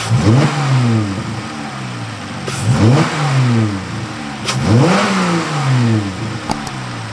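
Dodge Challenger GT's 3.6-litre Pentastar V6, fitted with an 80 mm ported and polished throttle body and throttle body spacer, revved three times. Each blip climbs sharply and falls back to idle over about a second and a half: once at the start, again near three seconds in and near five seconds in.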